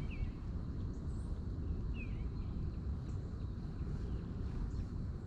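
A small bird giving a few short, quickly falling chirps, one pair near the start and another about two seconds in, over a steady low rumble.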